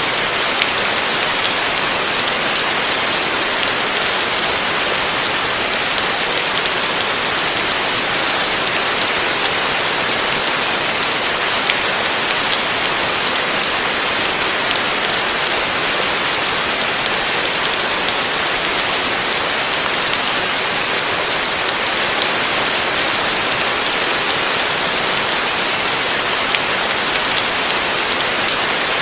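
Heavy rain falling steadily on a roof: an even, unbroken hiss of many drops.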